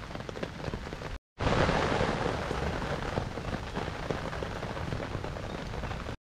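Rain pattering steadily on a tarp overhead, with small sharp crackles from a wood campfire. The sound cuts out for an instant about a second in and comes back louder.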